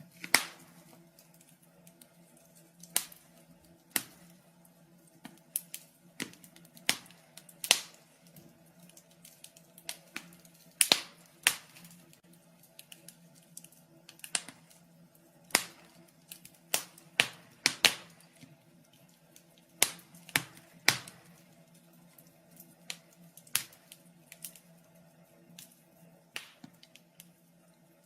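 Wood fire crackling in a fireplace: irregular sharp pops and snaps, a few per second, some much louder than the rest, with clusters of louder pops around the middle.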